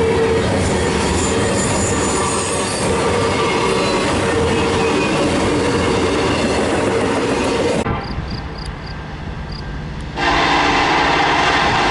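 Train passing close by: steady rumble and clatter of wheels on rail joints, with a train horn sounding. The sound drops abruptly about eight seconds in and comes back full about two seconds later.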